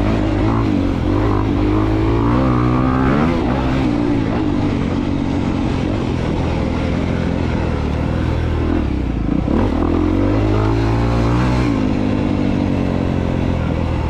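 2022 Honda CRF250R's single-cylinder four-stroke engine revving up and down as the dirt bike is ridden, its pitch climbing and dropping several times with the throttle.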